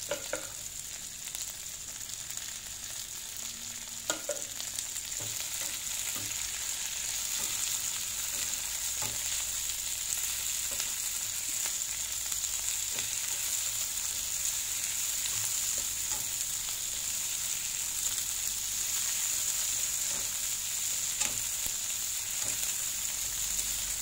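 Sliced chillies, shallots and garlic sizzling in hot oil in a nonstick wok, getting a little louder after several seconds. A plastic slotted spatula scrapes and taps the pan now and then as the mixture is stirred.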